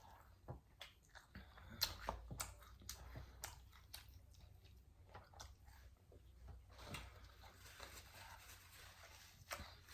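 Faint chewing and mouth sounds of a person eating, with scattered soft clicks and smacks.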